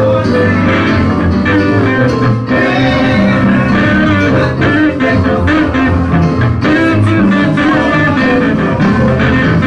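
Live gospel music from a church band, with guitar prominent over a steady bass line.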